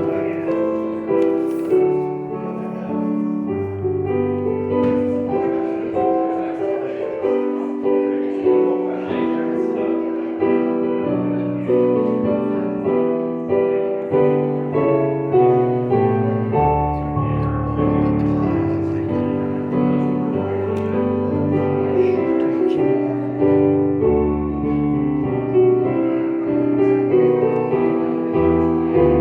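Solo piano music: chords and melody with held, overlapping notes changing about once a second, played as a service prelude.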